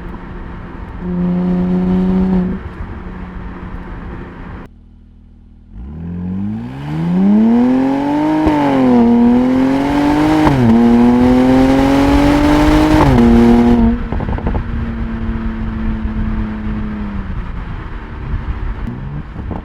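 2017 Mercedes-AMG SLC 43's twin-turbo V6 and exhaust: idling with a short blip of the throttle, then accelerating hard, the note climbing and dropping sharply at each upshift, before settling to a steadier, lower note.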